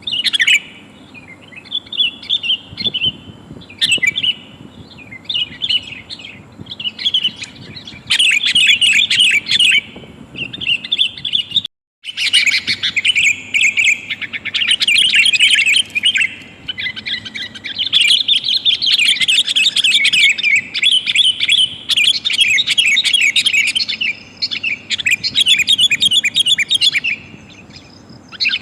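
Sooty-headed bulbuls calling in busy, fast runs of short chattering notes, which the uploader offers as a female calling to males and uses as a trapping lure. The sound breaks off for an instant about twelve seconds in.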